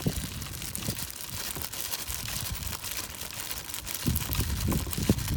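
Engine oil draining from a Kawasaki ZX-6R into a pan: a steady crackly hiss. Low rumbling gusts join in near the end.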